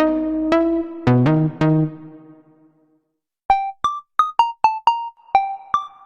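Waldorf Pulse 2 monophonic analog synthesizer playing a preset: a melodic line of pitched notes over a low drone that fades out about two and a half seconds in. After a short gap a different patch starts, short bright plinking notes, about three a second.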